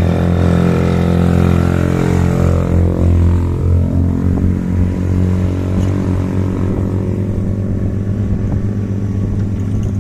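Motorcycle engine running steadily under way, its pitch wavering slightly a few seconds in.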